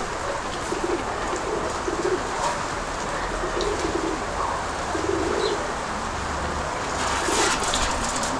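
Domestic pigeons (Nikolaev breed) cooing repeatedly in short low notes over a steady wind haze, with a brief rustling burst near the end.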